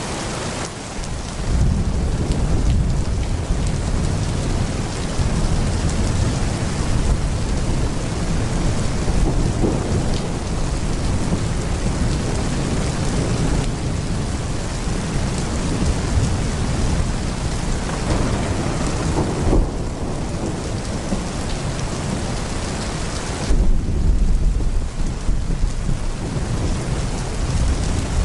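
Heavy rain pouring steadily, with thunder rumbling low beneath it. The thunder swells in about a second and a half in and again, louder, near the end.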